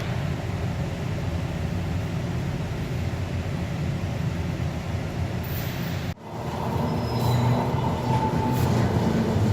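Steady low rumble of a heavy vehicle running. About six seconds in it cuts off abruptly and a louder rumble with a faint steady whine follows.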